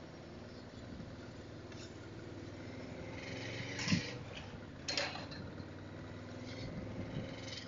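Yamaha Vmax V4 engine running at low city speed, heard muffled through a helmet-mounted microphone as a steady low hum, with two short knocks about a second apart midway.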